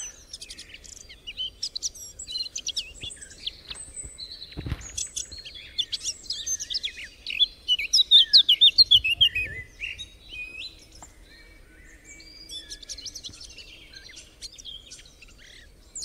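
Small songbirds singing and chirping, several overlapping, with a loud rapid run of descending notes about halfway through. A brief low thump a little over a quarter of the way in.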